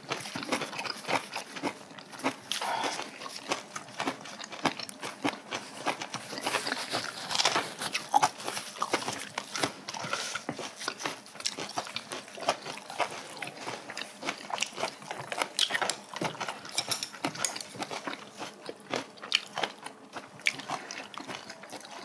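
Close-miked eating sounds of two people: chewing spicy braised cod head and side dishes, with many small irregular clicks and taps throughout.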